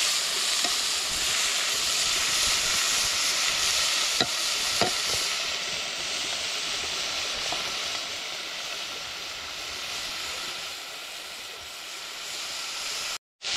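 Bamboo shoots stir-frying in a pan, with a steady sizzle and two sharp ticks about four and five seconds in. The sizzle eases off slightly later on and cuts out for a moment just before the end.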